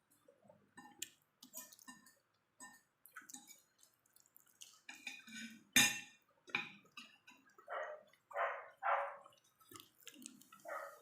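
Close-up eating sounds: wet chewing and mouth smacks with small clicks of utensils, and one sharp clink about halfway through. In the second half there are short barks or yips from a small dog, three in quick succession and one more near the end.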